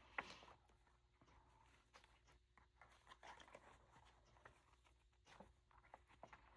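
Near silence, with a single click just after the start and faint scattered ticks and rustles of paper and lace being handled.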